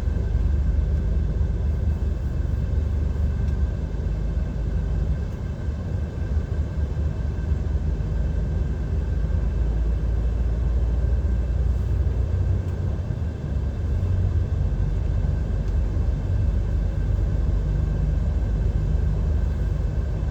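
DAF XF 530 lorry driving, heard inside the cab: a steady low drone of engine and road noise.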